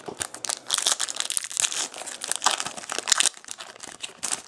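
Crinkling and tearing of a trading-card pack wrapper as it is torn open and handled, a dense run of crackles for about three seconds, then a short burst again near the end.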